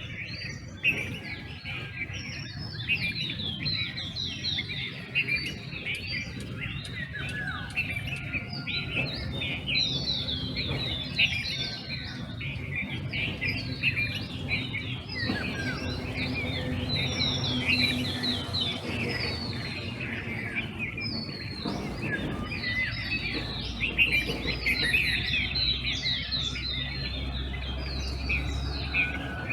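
Dawn chorus of many birds calling at once: a dense, overlapping mix of quick high chirps and trills, with a faint low rumble beneath.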